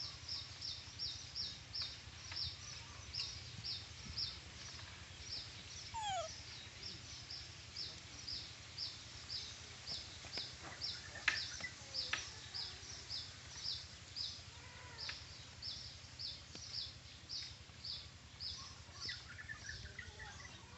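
A bird chirping over and over, short high peeps about two or three a second. A single falling whistle comes about six seconds in, and a sharp click about eleven seconds in.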